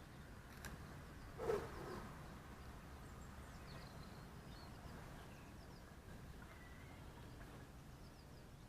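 Faint outdoor background with distant birds giving scattered short chirps, and one brief louder sound about one and a half seconds in.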